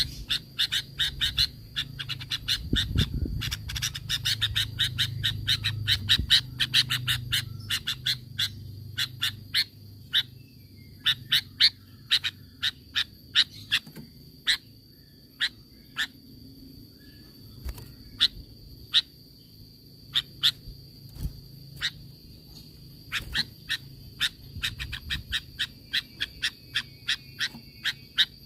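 Sooty-headed bulbul (kutilang) calling: a long run of short, sharp notes, several a second, thinning out to a more spaced series after about ten seconds, over a steady high-pitched tone.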